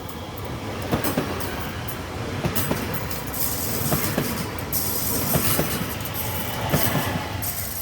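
A train running past on the line, its wheels clattering over the rails with repeated knocks, and a high hissing rush building up in the middle of the pass.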